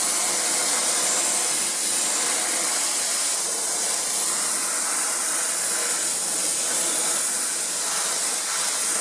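Spray adhesive being sprayed in one continuous, steady hiss without a break.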